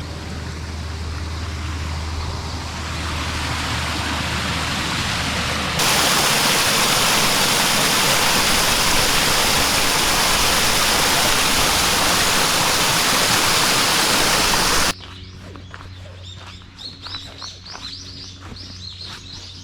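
Rushing water from a park waterfall, growing louder over the first few seconds. About six seconds in it becomes a loud, even rush that stops abruptly after about nine seconds. Then quieter outdoor sound follows, with birds chirping and scattered taps.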